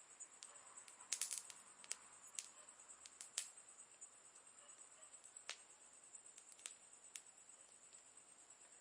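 Campfire crackling: sparse, sharp pops of burning wood, with a quick cluster about a second in, over a steady faint high hiss.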